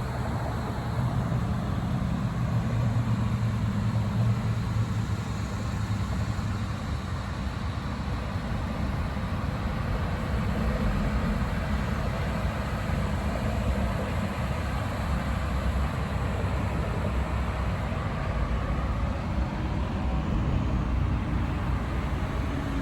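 Steady low rumble of road traffic, heaviest in the first few seconds.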